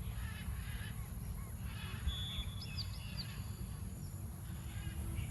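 A few faint, short bird chirps about two to three seconds in, over a steady low rumble.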